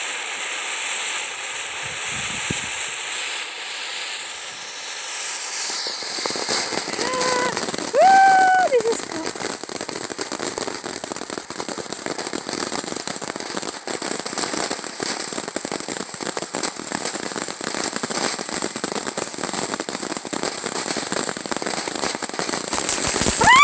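A string of firecrackers going off in a rapid, continuous crackle of pops that starts about six seconds in, after a steady hiss.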